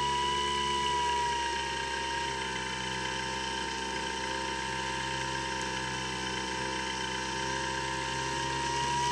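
Electric pusher motor and propeller of a Skywalker X7 flying wing running in flight, a steady high whine that eases off a little about two seconds in and picks up again near the end.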